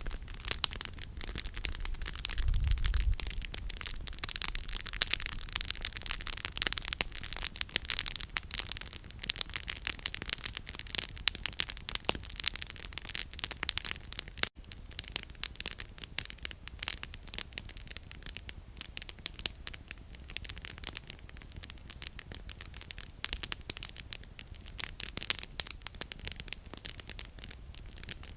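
Wood campfire crackling, with a dense, irregular run of sharp snaps and pops from the burning firewood that is busier in the first half. There is a low thump about two and a half seconds in.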